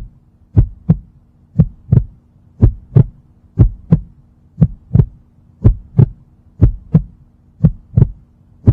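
Heartbeat sound effect: a steady double thump, lub-dub, repeating about once a second over a faint low hum.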